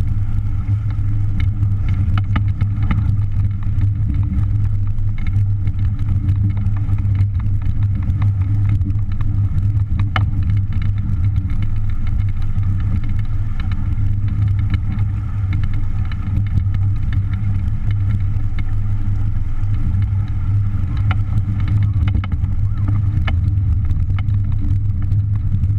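Strong wind buffeting the microphone on a small sailboat beating to windward: a loud, steady low rumble with faint scattered ticks above it.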